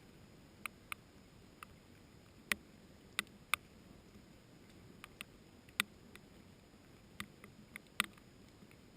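Scattered raindrops landing close by as sharp, irregular ticks, about a dozen of them, over a faint steady hiss of rain.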